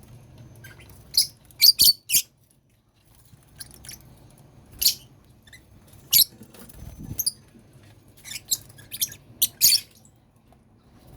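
Lovebirds in a colony cage giving short, sharp, high-pitched chirps and squeaks, in scattered bursts with pauses between.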